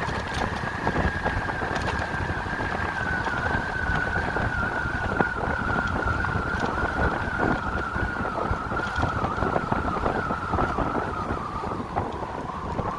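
Electric motorcycle's motor whining as it rides, the single tone slowly falling in pitch as the bike slows, over wind rushing across the microphone.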